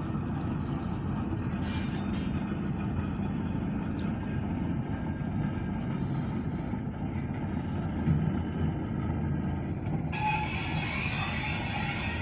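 Short freight train of grain hopper cars running on the track, a steady low rumble; a brighter hiss joins about ten seconds in.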